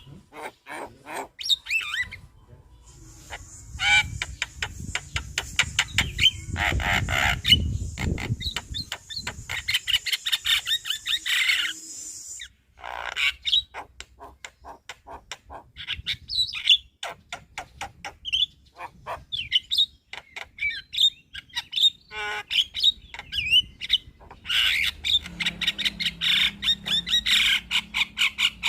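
Javan myna (jalak kebo) singing: a busy, varied run of rapid clicks, chatter, squawks and short whistled notes.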